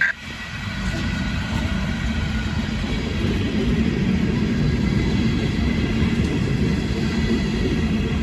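Freight train rumbling steadily past, building over the first couple of seconds and then holding. A short sharp sound comes right at the start.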